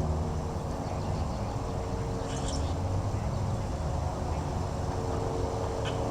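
Steady low background rumble with a faint hum, broken by two short high chirps, one a couple of seconds in and one near the end.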